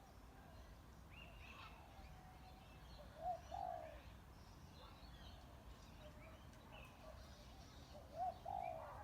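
Spotted dove cooing twice, each time a short note followed by a longer one, with other small birds chirping faintly.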